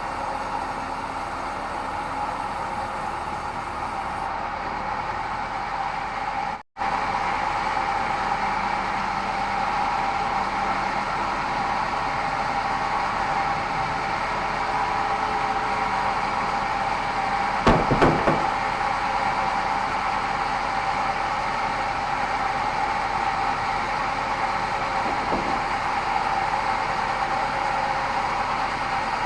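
Band sawmill running steadily with a constant whine, with a momentary dropout about a quarter of the way in and a few knocks a little past the middle.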